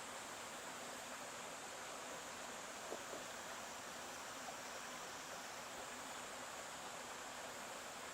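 Stream water running steadily, an even rushing hiss, with a couple of faint brief splashes about three seconds in.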